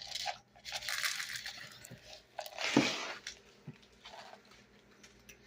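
Crinkling, rustling handling noises in two bursts, one in the first second and one a little before the middle, then faint.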